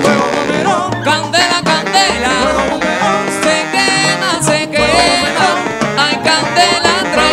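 Charanga band playing Cuban dance music: a bass line and percussion under wavering melodic lines.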